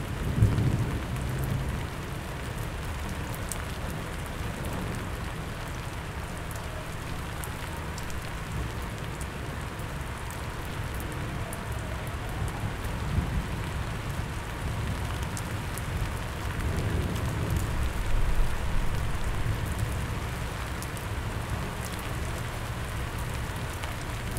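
Steady rain falling on leaves and other surfaces, with scattered drips and a low rumble underneath.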